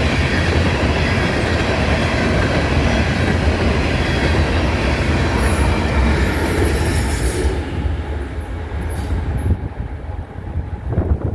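CSX freight train rolling past on the rails, a loud steady rumble of wheels on track. After about seven and a half seconds it thins out and fades as the train moves off, leaving gusty wind noise on the microphone near the end.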